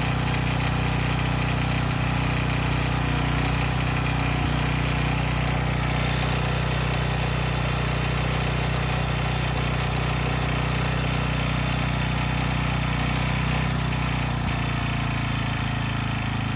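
Rebuilt 10 hp Briggs & Stratton single-cylinder generator engine running at a steady speed and making a lot of mechanical noise. The owner suspects a deeper fault: the crankshaft journal, the cylinder or the wrist pin, having ruled out the valve train parts.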